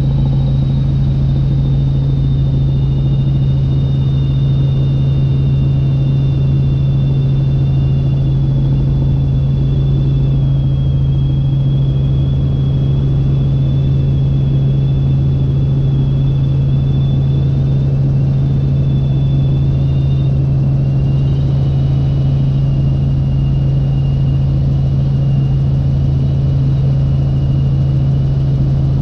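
Helicopter in flight heard from the cabin: a loud, steady drone of engine and rotor, with two thin high whines that drift slightly in pitch.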